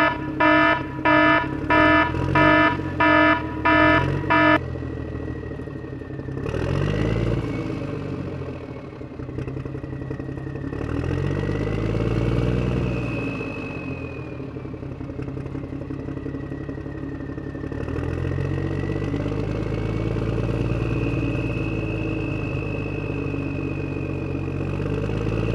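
Dump truck signalling with about seven short, evenly spaced beeps. Its engine then revs up and down several times, with a whine that rises and falls with the engine speed.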